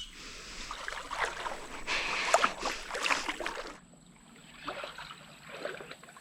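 Creek water splashing as someone wades through it, a run of splashes loudest in the middle, then a couple of softer ones near the end.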